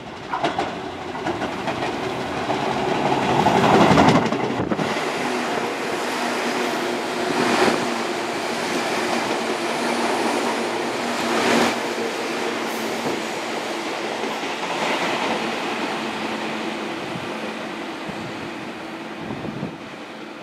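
Tobu 20000 series electric train, set 21806F, running through a station at speed without stopping: the noise swells to its loudest about four seconds in as the front draws close, then the cars go by with a steady hum and a louder clatter of wheels over rail joints every few seconds.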